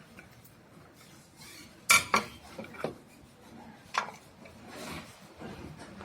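Sharp clicks and clinks of a screw and tool knocking against a facial steamer's housing as it is put back together: the loudest knock comes about two seconds in, another about four seconds in, with some scraping near the end.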